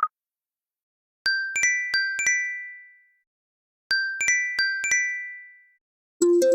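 iPhone alarm tone: a short phrase of quick, bell-like chime notes that ring out and fade, played twice about two and a half seconds apart. The tail of a previous buzzy tone cuts off right at the start, and a new, fuller ringtone melody begins just before the end.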